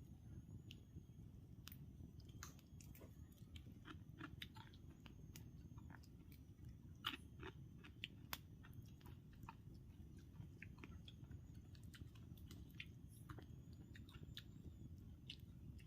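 Faint, irregular small clicks and snaps over a low steady background rumble.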